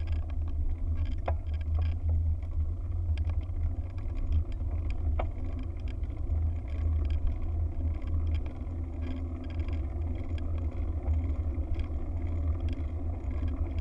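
Wind buffeting the microphone, a steady deep bass rumble with a few faint ticks.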